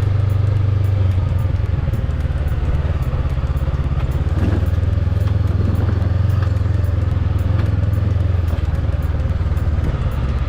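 Motorbike engine running steadily as the bike is ridden, a low, fast-pulsing engine note that holds throughout.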